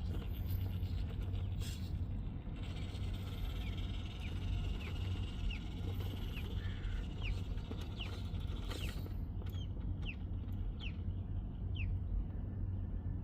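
A bird calling in a run of short high chirps, about two a second, over a steady low rumble.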